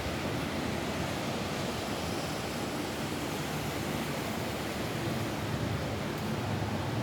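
Steady rain falling on a roof: an even, unbroken hiss of rain noise with a low rumble beneath it.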